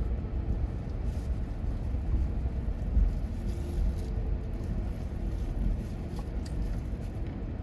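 Car driving on a snow-covered road: a steady low rumble of engine and tyre noise.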